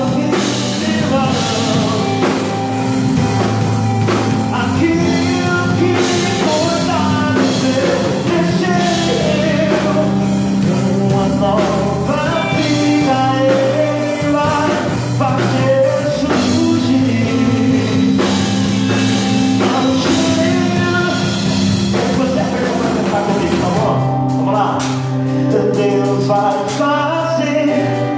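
A live worship song: singing over instrumental accompaniment, with held low notes and a regular beat.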